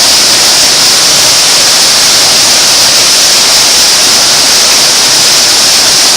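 Loud, steady rush of falling water.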